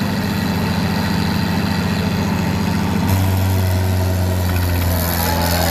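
Tractor's diesel engine running with an even pulsing beat; about three seconds in its note changes abruptly and becomes a steadier, stronger drone.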